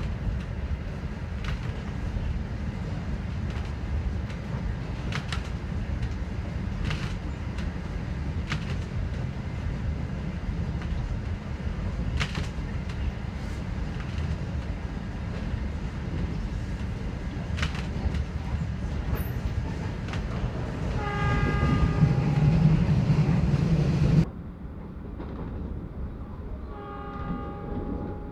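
Passenger train running: a steady low rumble with occasional clicks from the track. About 21 seconds in, the train's horn sounds for about three seconds, the loudest part. After an abrupt cut the ride is quieter, and the horn sounds again more faintly near the end.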